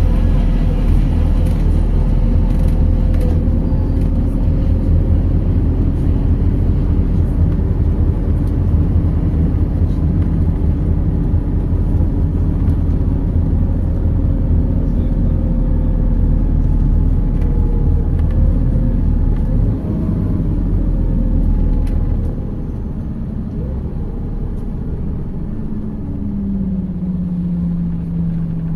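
MAZ 206 city bus under way, engine and road rumble with a whine that falls slowly as the bus slows. About two-thirds of the way through the rumble drops, and near the end the engine settles into a steady idle.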